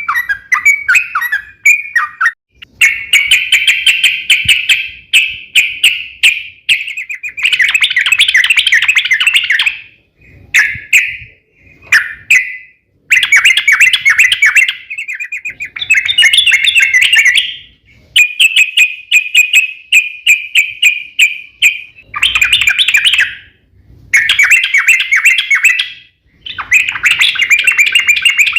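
Yellow-vented bulbul (trucukan) singing in long, rapid bubbling rolls of notes. The phrases last one to three seconds each and repeat with short pauses between them.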